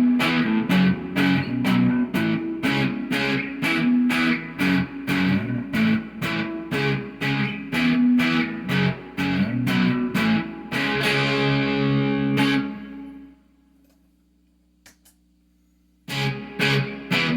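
Electric guitar played through an amplifier and effects: a fast, even rhythm of picked chords, then a chord let ring that fades out about 13 seconds in. After a couple of seconds of near silence the chugging rhythm starts again.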